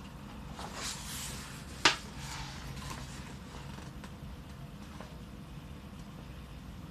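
Paper pages of a colouring book being handled and turned: a soft rustle about a second in and a sharp tap just before two seconds. A faint steady low hum lies under it.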